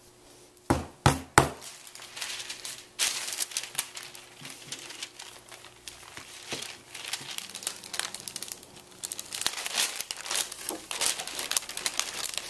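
Three quick knocks about a second in, then wax paper crinkling and crackling irregularly as polymer clay is pressed flat on it.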